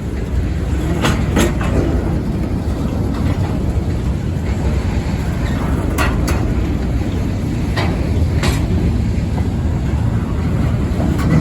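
South Carolina Central local freight train's loaded cars rolling past at a grade crossing: a steady rumble of wheels on rail, with sharp clacks in quick pairs as the wheel sets cross rail joints, heard three times.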